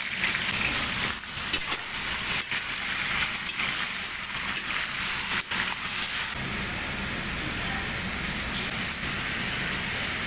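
Chicken wings sizzling in hot oil in a large wok, with a metal spatula knocking and scraping against the pan as they are stirred. The knocks stop about six seconds in and the sizzle goes on steadily.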